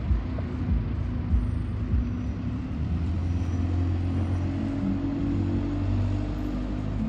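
Alexander Dennis Enviro200 single-deck bus heard from inside the cabin: its engine runs with a steady low hum, with a few knocks and rattles in the first two seconds.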